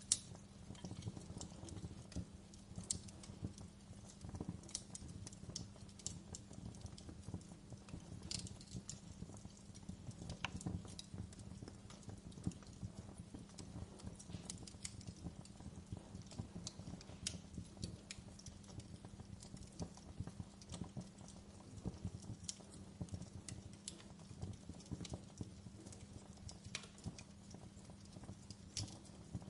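Wood fire crackling in a fireplace: irregular sharp pops and snaps over a steady low rumble, with one louder pop right at the start.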